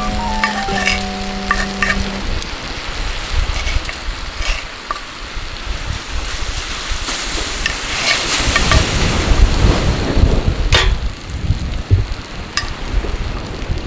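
Beef steak frying in a pan over a campfire: a steady sizzling hiss with a few sharp crackles. A few held musical notes sound in the first two seconds.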